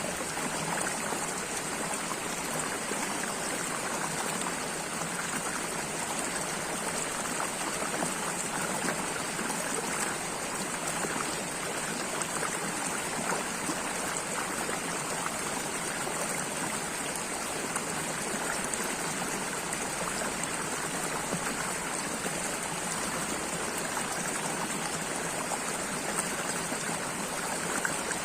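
Flowing stream water running steadily with a continuous trickle.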